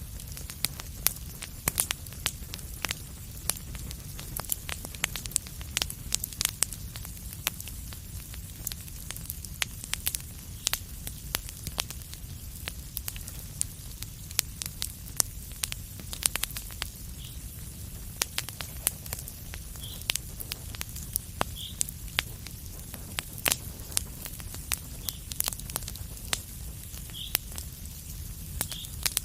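Wood fire in a fireplace crackling, with frequent sharp pops and snaps over a steady low rumble of the flames. A few short, faint hisses come through in the second half.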